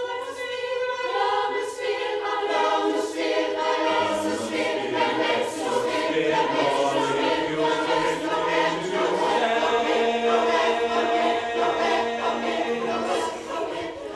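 A choir singing in several voice parts, holding sustained notes; a lower part comes in about four seconds in.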